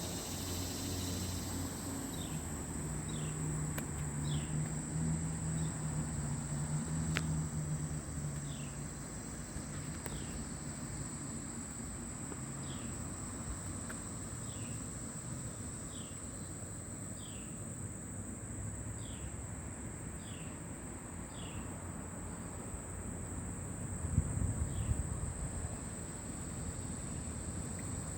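Steady high-pitched drone of summer insects, with a bird giving short falling chirps every second or two. A low hum fades after the first few seconds, and a brief low rumble comes near the end.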